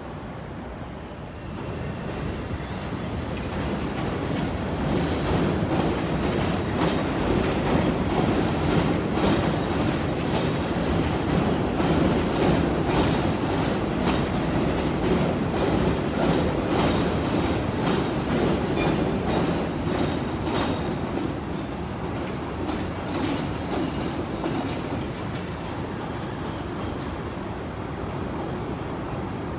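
CTA 'L' elevated rapid-transit train rolling through a rail junction, its wheels clattering over the switch and crossing joints. The rumble swells in a couple of seconds in, is loudest in the middle with a run of sharp clicks, and eases off toward the end.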